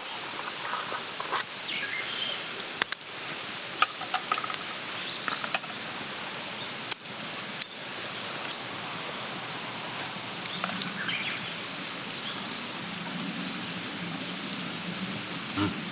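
Campfire crackling, a steady hiss broken by scattered sharp pops, with a few light clinks of tableware.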